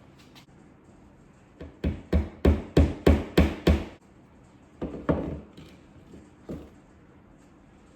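Hammer driving a nail into a wall: a quick run of about seven sharp strikes, some three a second, followed by a few spaced-out taps.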